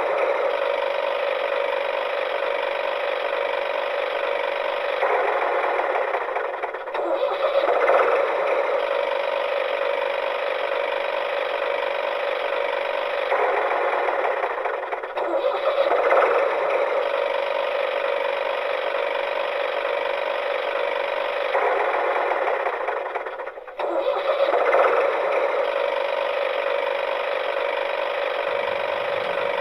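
Engine running steadily, with a brief dip then a surge about every eight seconds.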